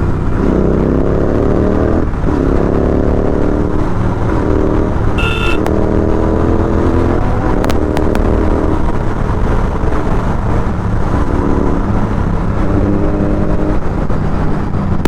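Motorcycle engine under way, revving up in repeated short rising pulls between gear changes, over a steady low road and wind rumble. A brief horn beep sounds about five seconds in.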